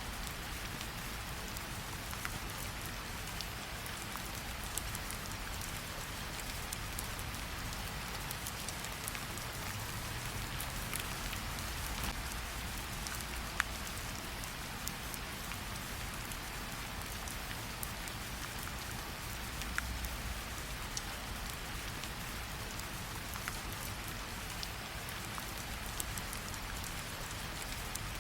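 Steady rain falling, mixed with a wood fire: an even hiss of rain over a low rumble, with scattered sharp crackles every second or so.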